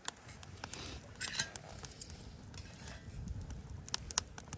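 Light clinks and scrapes of eating utensils against a dish or pot, a scatter of sharp clicks.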